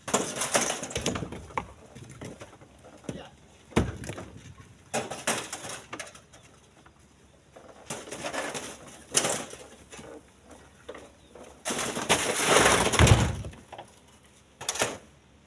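Split stones being thrown into a truck's cargo bed: irregular crashes and clatters of rock, about half a dozen, with the longest and loudest about twelve seconds in.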